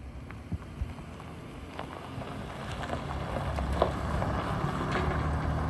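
Vehicle running on the road, a low steady rumble of engine and road noise that grows louder as it gets under way, with a few small clicks and rattles.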